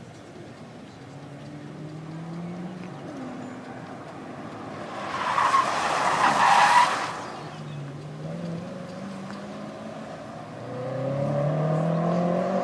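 BMW car being driven hard on a driving course: the engine revs rise as it accelerates, then the tyres squeal loudly for about two seconds midway as the car slides. Near the end the engine revs climb again.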